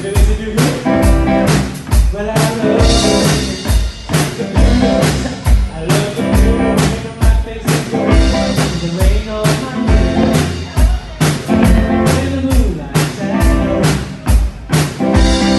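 Live band playing an upbeat blues-rock song, with a drum kit keeping a steady beat under bass and guitar.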